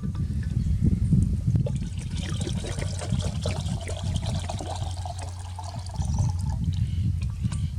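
Water trickling for a few seconds, starting about two seconds in and stopping shortly before the end, over a steady low rumble.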